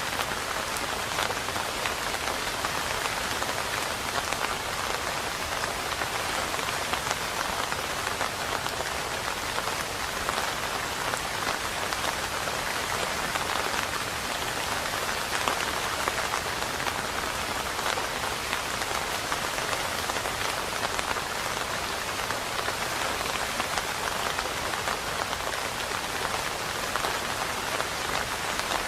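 Steady rain falling on a hard surface: a dense, even wash of many individual drops that keeps an unchanging level throughout.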